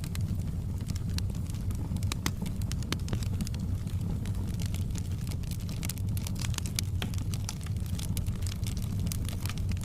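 Fireplace wood fire crackling: irregular sharp snaps and pops over a steady low rumble.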